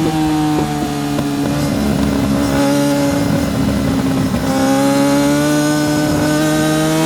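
Yamaha R6's 600cc inline-four engine at racing revs: the note falls as the bike slows, turns rough and uneven for a couple of seconds at its lowest, then rises steadily as it accelerates hard again.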